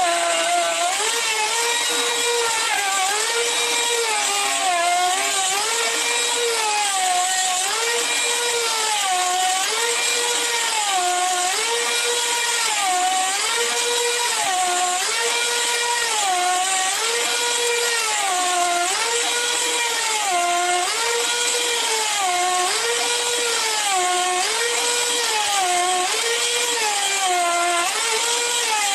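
Electric woodworking power tool whining steadily, its pitch dipping and recovering about every two seconds as it is loaded and eased off again and again.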